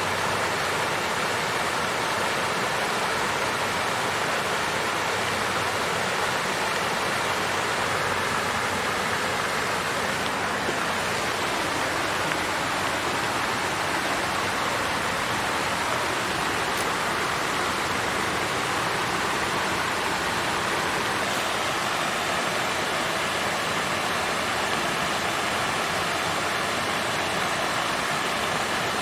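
Water fountain flowing, a steady even rush of splashing water with no breaks or changes.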